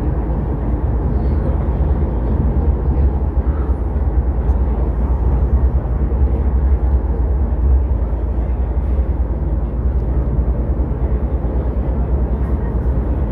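A steady low rumble heard inside the carriage of an MTR R-train running along the track, the noise of wheels and running gear.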